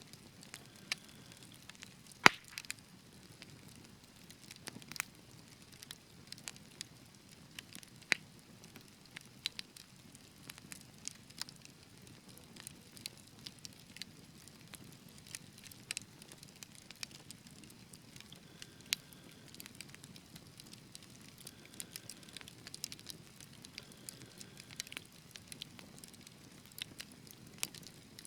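Wood fire burning in a fireplace, crackling with irregular sharp snaps and pops over a soft low rumble of flames; the loudest pop comes a little over two seconds in.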